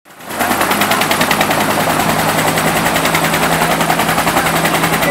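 Eagle Single 212 helicopter (a Bell 212 converted to one turbine engine) running close by, its two-bladed main rotor beating in a fast, even chop over a steady engine hum. The sound comes in abruptly at the very start.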